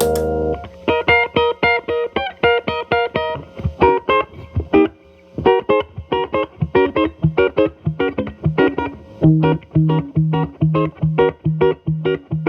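Electric guitar (Telecaster) played through an MI Audio Crunch Box distortion pedal set to minimum gain into a Marshall Valvestate amp's clean channel: a run of short picked notes and chord stabs. Toward the end a low note repeats about twice a second, alternating with higher notes.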